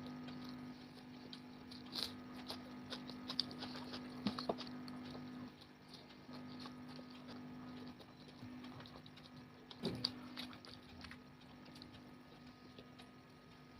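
Someone eating chicken biryani: faint, scattered small clicks and smacks of chewing and handling the food, over a steady low hum.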